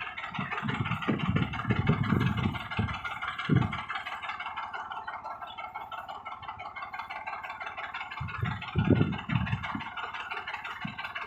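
Silage machine running: a steady, dense mechanical noise with clusters of low thuds.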